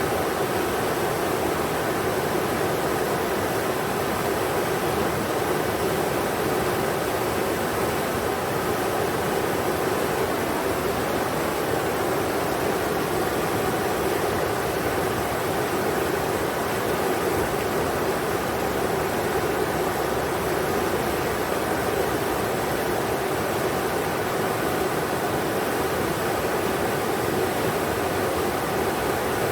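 Englishman River rushing past: a steady, even roar of flowing water with no breaks.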